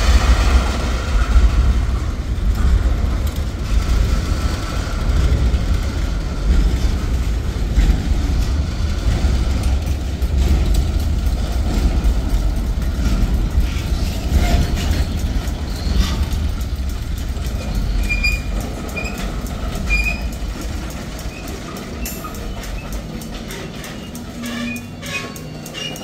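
Freight cars of a mixed manifest train, tank cars and boxcars, rolling past: a steady low rumble with wheels clacking over the rail joints, the rumble easing off in the last third.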